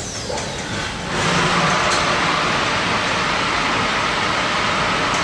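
High-pressure water jets of a 5-gallon bottle washing machine come on suddenly about a second in and spray with a loud, steady hiss, over quieter machine running noise.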